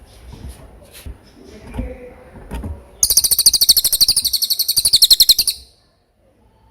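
Cililin, a small hanging parrot, singing a loud, very rapid, high-pitched trill for about two and a half seconds, starting about three seconds in. Before it there are only faint chirps and soft knocks.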